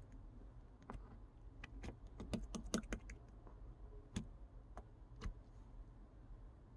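Elmer's glue slime being pressed and worked by hand, giving sharp sticky clicks and pops: a quick run of them about two seconds in, then a few scattered clicks that thin out.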